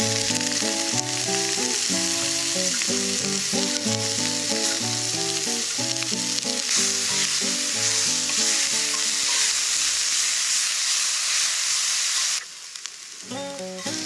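Food sizzling steadily in a hot pan, a loud even frying hiss that cuts off abruptly near the end. A melodic background music track plays underneath throughout.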